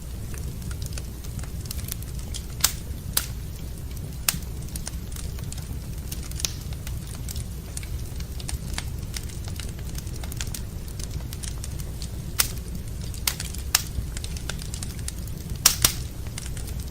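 Wood fire burning in a fireplace, crackling steadily over a low rumble, with scattered sharp pops, the loudest pair near the end.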